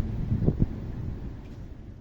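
Wind buffeting the microphone in an uneven low rumble with gusty thumps, fading toward the end.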